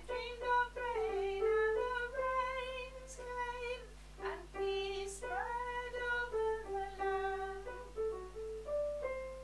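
An alto voice singing a slow melody of held notes in the alto part of a choral arrangement.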